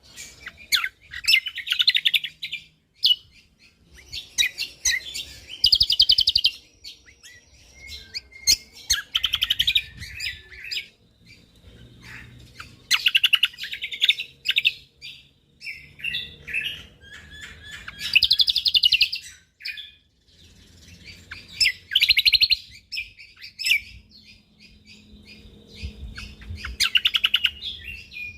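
Cucak kombo (kecial kombo) songbird singing vigorously: bursts of very rapid, closely packed high notes about a second long, repeated every few seconds, with scattered softer chirps in between.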